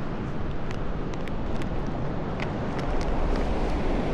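Wind buffeting the microphone over the steady wash of ocean surf, with several faint, sharp clicks scattered through.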